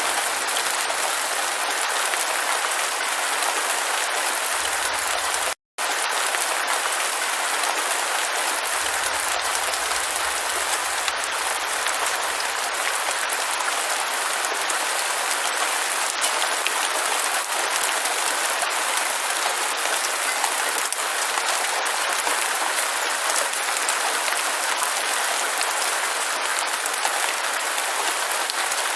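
Steady rain falling, a dense even hiss, with a split-second dropout to silence about five and a half seconds in, where the recording is spliced.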